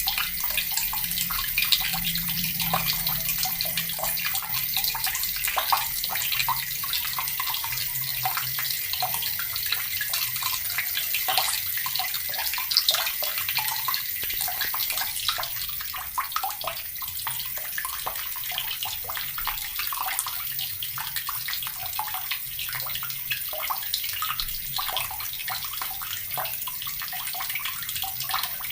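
Water running steadily from a tap and splashing into a basin below.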